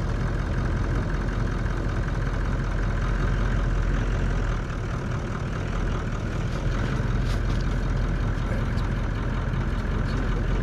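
A vehicle's engine running steadily at low speed, a continuous low drone.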